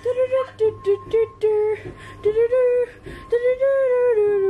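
A person singing a wordless tune: short separate notes at first, then longer held notes from about halfway, the pitch sliding down near the end.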